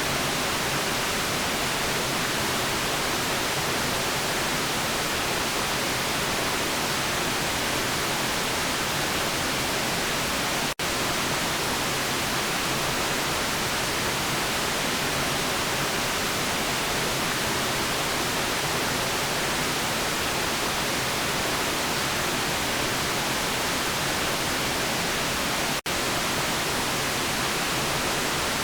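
Steady, even white noise: a constant hiss with no tones or events, broken by two split-second dropouts, about a third of the way in and near the end.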